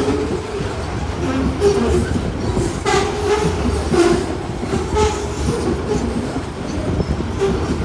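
Freight train wagons rolling past over the rails, a steady heavy rumble with a sharp wheel clack about once a second.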